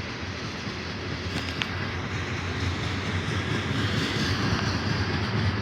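Freight train rolling past on the rails: a steady rumble that grows slightly louder, with a couple of sharp clicks about a second and a half in.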